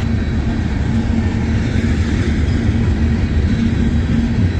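Freight train rolling along, heard from aboard: a steady low rumble of wheels on rail with a steady hum running through it.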